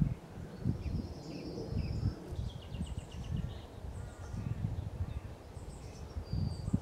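Small songbirds singing: scattered high chirps, with a quick trill of repeated notes about three seconds in, over a low uneven rumble.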